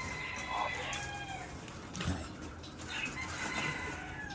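Birds calling: a few short pitched calls, with a soft knock about two seconds in.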